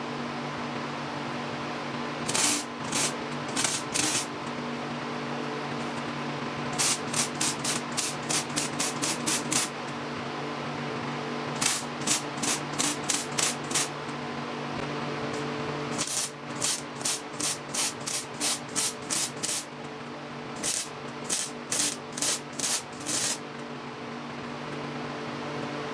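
MIG welder on thin galvanized tubing, fired in short stitch bursts: runs of quick crackling hisses, about three or four a second, with pauses between the runs, over a steady machine hum.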